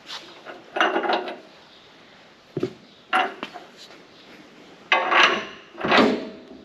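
Metal parts clanking and rattling in about five short bursts as bolts and nuts are handled.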